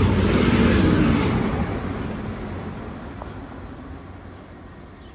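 A Northern Class 195 diesel multiple unit passing close and running away. Its rumble is loudest in the first second and a half, then fades steadily.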